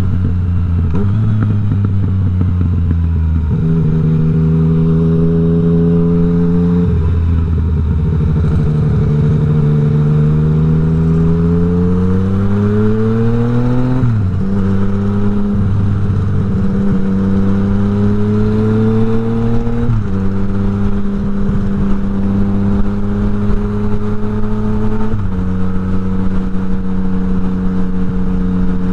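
Yamaha MT-09's inline three-cylinder engine pulling under throttle: its note climbs steadily, then drops sharply at each of several gear changes.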